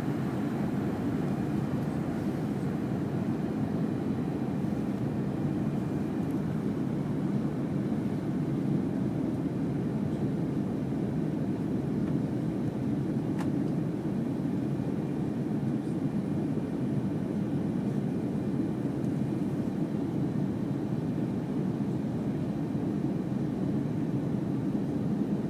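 Steady cabin noise inside a Fokker 100 airliner in flight: an even, low rush of airflow and the rear-mounted Rolls-Royce Tay turbofans, with one faint click about halfway through.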